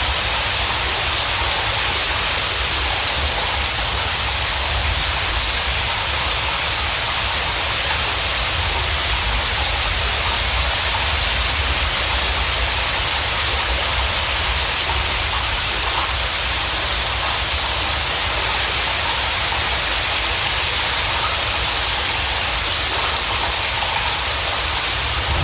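Steady heavy rain, an even hiss with a low rumble underneath and no change through its length.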